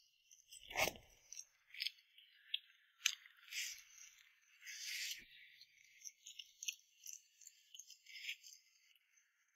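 Close-up chewing and crunching of a crisp pan-fried Chinese chive pancake, an irregular run of crackly bites and chews with one louder knock about a second in.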